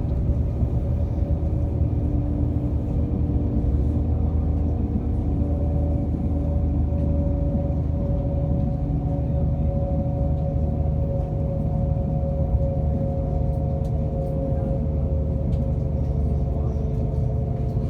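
Passenger train running at speed, heard from inside the carriage: a continuous rumble of wheels on the track with a steady hum from the train's engine and transmission.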